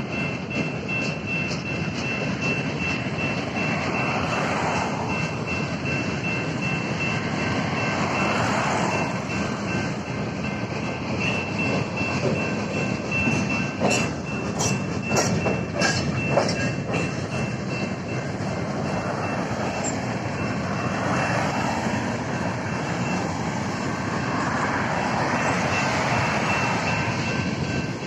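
Freight cars of a BNSF manifest train rolling through a grade crossing, with a steady rumble and a cluster of sharp wheel clacks over the rail joints about halfway through. Over it the crossing's General Signals Type 2 electronic bell rings steadily.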